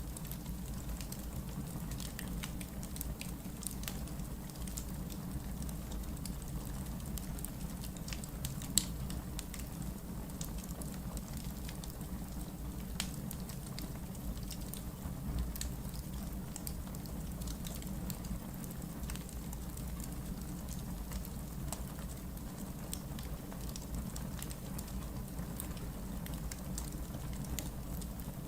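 Wood logs burning in a fireplace: a steady low rumble of the flames with scattered sharp crackles and pops, one louder pop about nine seconds in.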